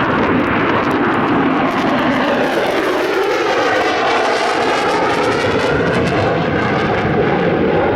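F-35A Lightning II jet passing low with its engine at high power, a loud, steady roar with a sweeping, phasing sound in the middle as it goes by.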